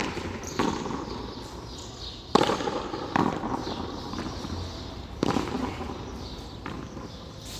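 Handball (frontón a mano) rally: loud, sharp smacks of the ball being struck by hand and rebounding off the frontón wall, each with a short echo. They come in quick pairs about two and a half seconds apart.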